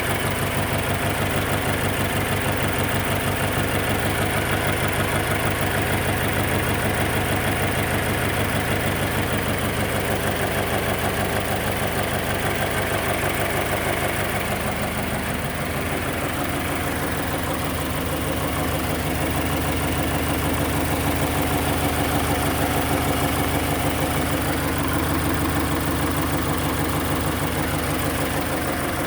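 Subaru BRZ's flat-four engine idling steadily, with an exhaust noise that the owner considers bad. The idle note shifts slightly about halfway through.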